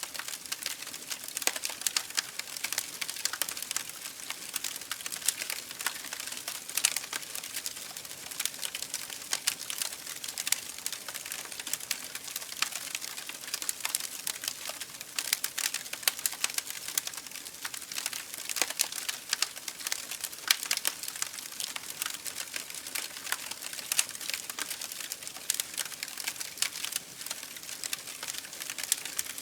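Campfire burning, with a steady hiss and irregular sharp crackles and pops from the burning wood, several a second.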